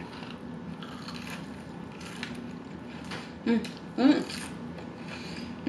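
Close-miked chewing of a fried onion ring: soft crunches and wet mouth sounds, with two short pitched mouth sounds about three and a half and four seconds in as fingers are sucked clean.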